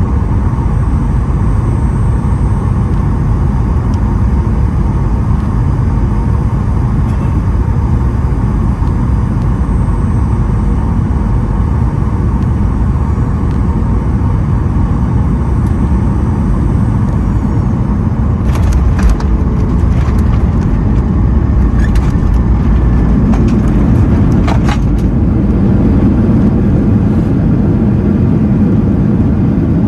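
Cabin noise of a Boeing 737-900ER with CFM56-7B engines: a steady loud rumble. About two-thirds through come a series of knocks and rattles, and then the engine noise grows louder and deeper: the main gear touching down and the reverse thrust coming on.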